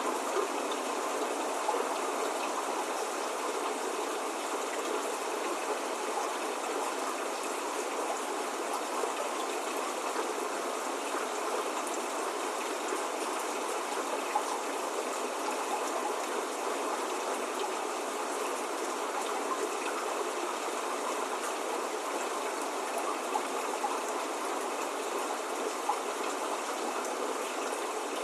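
Steady spring rain falling as an even hiss, with a few slightly louder drop ticks here and there.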